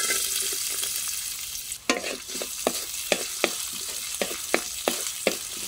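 Diced ginger sizzling in hot cooking oil in a pan as it is sautéed, the sizzle starting suddenly as the ginger goes in. From about two seconds in, a wooden spatula strikes and scrapes the pan about ten times while stirring.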